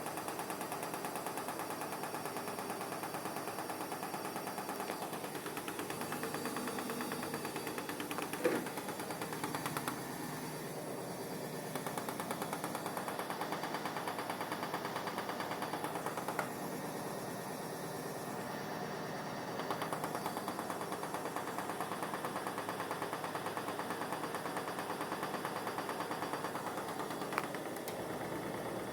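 Vestel washing machine on its final spin, the fast-turning drum giving a steady, rapid rattle, with a few sharp knocks about a third, halfway and near the end.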